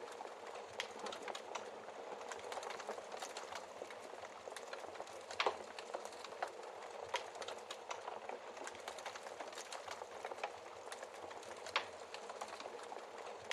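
Wood fire crackling in a fireplace: a steady hiss with frequent small snaps, and sharper pops about five and a half seconds in and again near the end.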